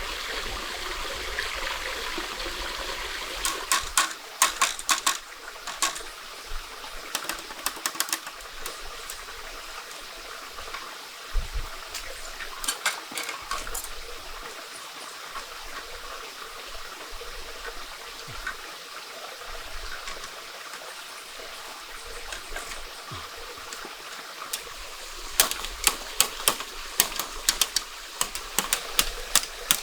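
Running stream water, with several bursts of rapid sharp clicks or taps over it.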